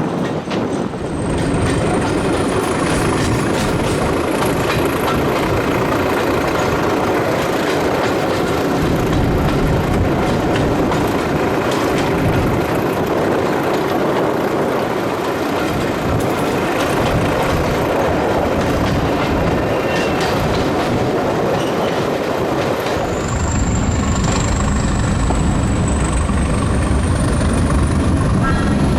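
A train on the move, running steadily with a thin high whine that slowly rises in pitch. About three-quarters of the way through, the low rumble strengthens and a new rising whine begins.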